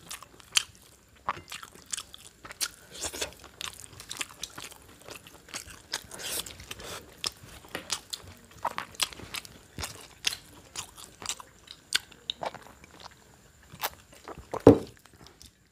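People eating rice with beef at contest pace, making an irregular stream of chewing and mouth clicks.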